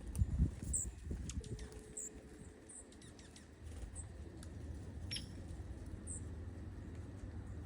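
Small wild birds giving short, high chirps every second or so, with light ticking and pecking clicks, over a low steady rumble. A couple of low thumps come just after the start.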